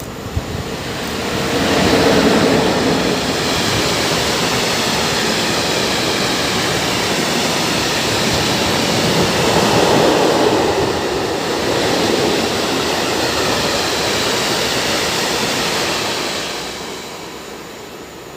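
Freight train of rail tank wagons hauled by an ET22 electric locomotive rolling past at speed: a steady rush of wheels on rail. It swells about a second in and fades away near the end.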